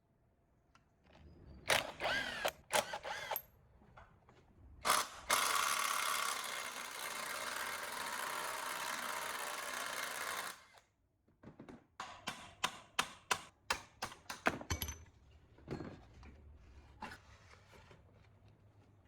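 Workshop sounds of metal parts and hand tools: a few ringing metallic clinks, then a steady hiss lasting about five seconds, then a quick run of about a dozen sharp clicks.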